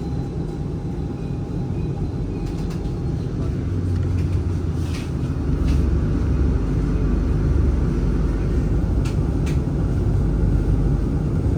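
Steady low rumble of outdoor city ambience, most likely road traffic, with a few faint clicks about halfway through and again near the end.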